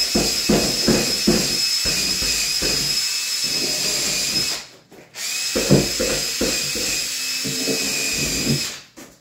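Power drill driving screws through a cabinet into the wall studs: two long runs with a steady high motor whine. The first stops about four and a half seconds in, and the second starts half a second later and stops shortly before the end.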